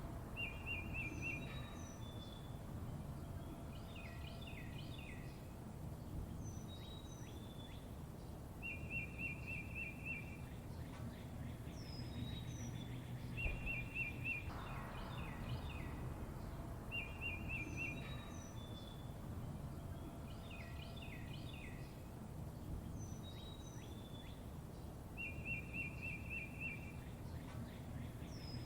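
Songbirds calling: a short buzzy trill repeated every few seconds, among clusters of quick falling chirps and high thin notes, over a steady low rumble.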